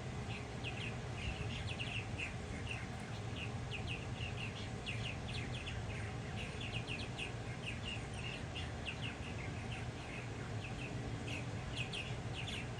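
Fledgling chickadee begging for food: rapid, repeated short high chirps, several a second, calling for its parent to feed it, over a low steady hum.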